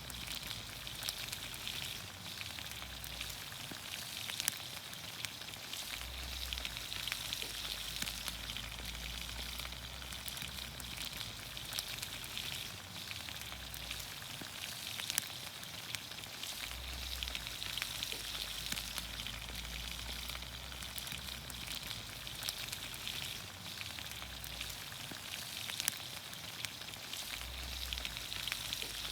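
Vegetables cooking in olive oil in a pan over a campfire: a steady crackling sizzle, with a few sharper pops standing out.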